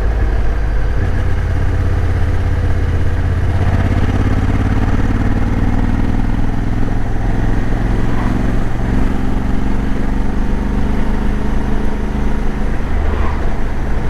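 Motorcycle engine running steadily while riding along a road, its note stepping up once or twice in the first few seconds.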